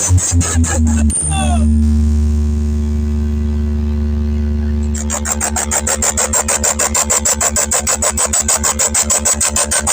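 DJ sound-system sound-check track played loud: a few short beats and vocal snippets, then a held deep bass tone, then from about five seconds in a fast, evenly repeating stutter pulse.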